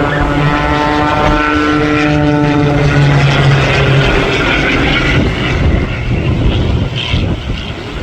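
Propeller airplane's engine drone as it flies past, steady in pitch and then dropping slightly lower as it goes by. Its tone fades about halfway through into a rougher, noisier rumble.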